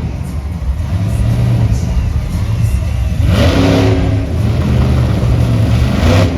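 A large engine revving: a steady low drone that climbs in pitch a little past the middle, with a loud hissing rush at the same time and again near the end.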